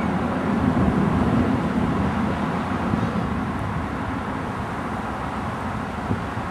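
Steady low rumble of outdoor street noise, easing a little in the second half.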